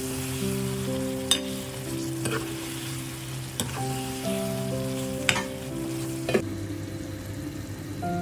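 Chicken karahi sizzling in a frying pan as it is stirred, with a few sharp knocks of the spoon against the pan. The sizzle drops away about six seconds in. Soft background music with held notes plays underneath.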